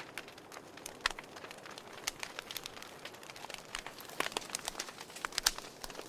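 Wood fire crackling: irregular sharp pops and snaps over a soft steady hiss, with a quicker run of louder pops from about four to five and a half seconds in.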